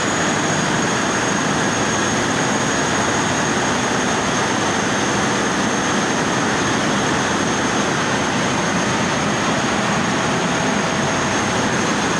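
Steady, loud engine-room drone of a running Niigata eight-cylinder inline marine diesel main engine, with a thin steady high whine over it.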